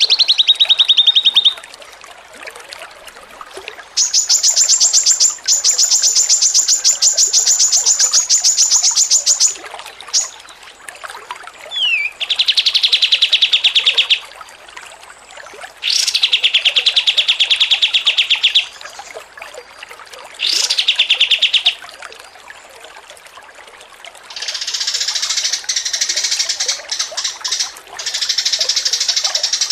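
Songbird song: a run of rapid, finely repeated trills that come in separate bursts of one to five seconds each, some higher and some lower in pitch, ending in a longer, rougher chatter.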